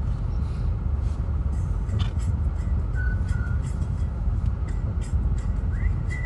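Car engine running, a steady low rumble heard from inside the cabin, with a few faint clicks and two short high tones.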